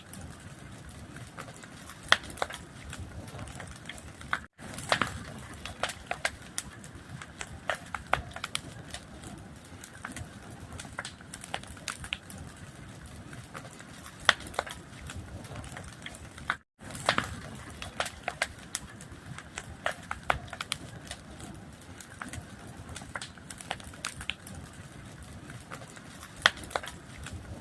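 Fire crackling: frequent sharp pops and snaps over a steady hiss. The sound drops out to silence twice, briefly, about four and a half and about seventeen seconds in.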